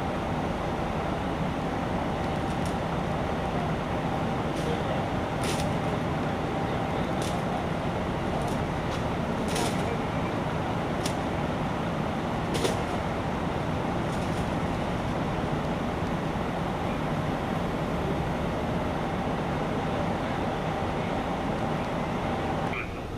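A large vehicle engine running steadily, with a constant low hum and a few faint clicks.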